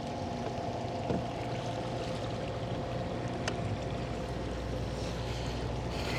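Kayak moving on the water, with a steady low hum and one sharp click about three and a half seconds in.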